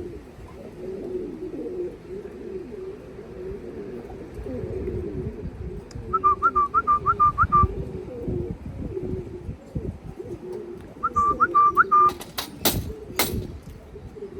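Domestic pigeons cooing over and over. Twice, a quick run of short high chirps, about six in a second and a half, cuts across the cooing, and a few sharp clicks come near the end.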